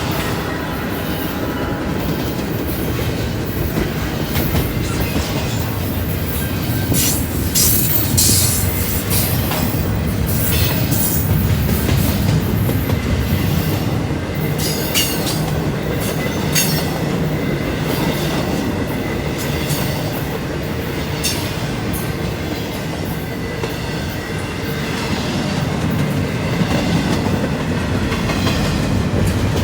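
A Norfolk Southern train's cars rolling past: a steady low rumble with irregular clicks and knocks from the wheels.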